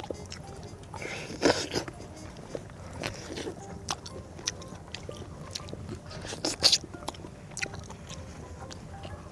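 Close-up eating sounds: chewing and gnawing meat off the pork bones of a gamjatang stew, with scattered small clicks and short crunches.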